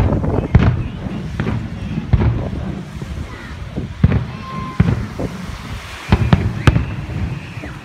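An aerial fireworks display: a run of irregular booms and cracks from bursting shells, at times several a second. The bangs are heaviest about half a second in and again around six to seven seconds in.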